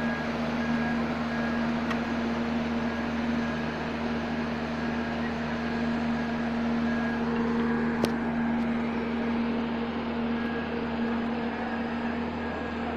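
A vehicle engine running steadily under load, with a high beep repeating about once a second, and a single sharp click about eight seconds in.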